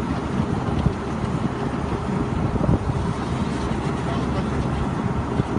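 Truck-mounted rotary table water well drilling rig running, with a steady heavy engine drone and a few short knocks.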